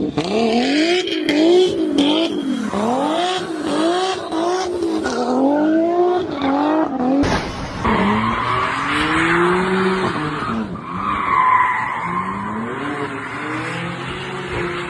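Car engine revving up and down over and over, then tyres squealing and skidding as the car loses grip, with the engine still running under it.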